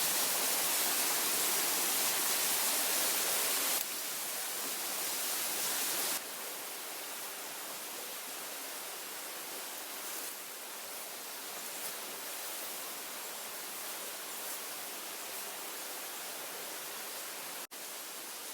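Steady hissing noise with no distinct events, stepping down in level about four and six seconds in and dropping out briefly near the end, as at cuts between shots.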